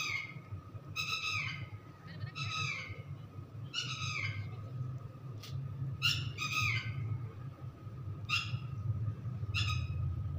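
A bird calling over and over: short, harsh calls that fall in pitch, roughly one every second or two, over a steady low hum.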